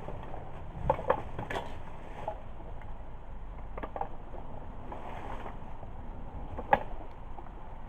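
Driftwood campfire burning with a steady low hiss and scattered sharp crackles and pops, several in the first two seconds and the loudest near the end.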